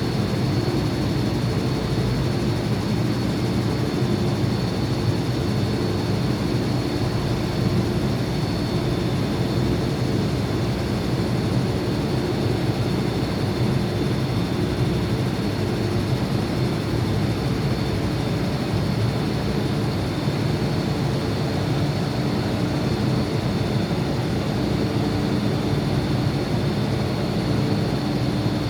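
Steady drone of an MTR C-train standing at the platform, its ventilation and auxiliary equipment running, with a faint steady high whine over a low hum.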